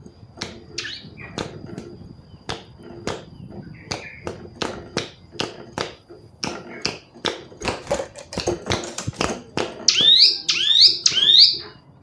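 Female ciblek gunung calling: a run of short, sharp, clipped notes at an uneven pace, then near the end three loud falling notes in quick succession.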